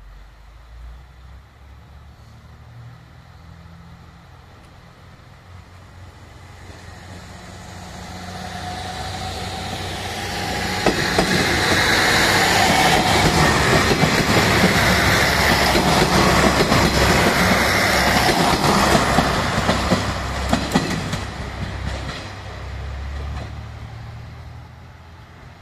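A diesel railcar approaches, passes close by with its engine running and its wheels clacking over the rail joints, then fades as it draws away.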